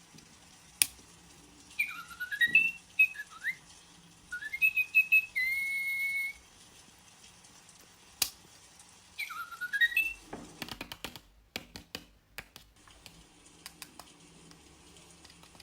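Interactive toy bird chirping and whistling electronically: short runs of rising chirps, then one held whistle note, and the same chirp pattern again. A quick cluster of clicks follows in the second half.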